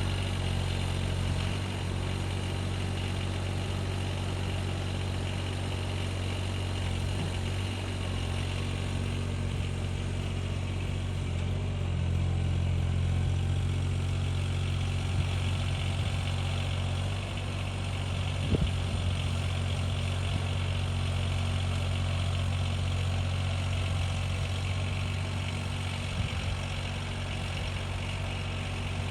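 An engine running steadily with a low, even hum, and a single short knock about two-thirds of the way through.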